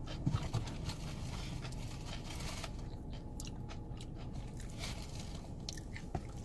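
A person chewing and biting food close to the microphone: scattered short crunches and mouth clicks over a steady low hum.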